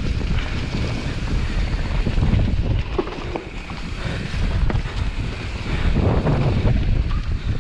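Wind buffeting the microphone: a dense, gusty low rumble.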